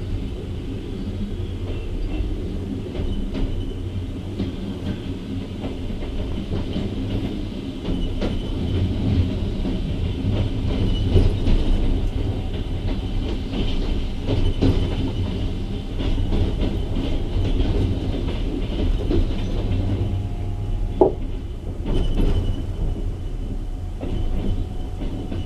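Passenger carriage wheels rolling on the track: a steady rumble with irregular clicks over rail joints and points, and a brief squeal about 21 seconds in.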